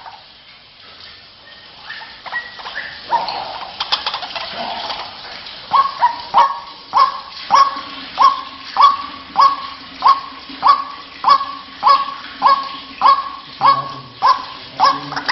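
White-breasted waterhen calling: a few scattered calls, then from about six seconds in a steady series of repeated harsh notes, nearly two a second.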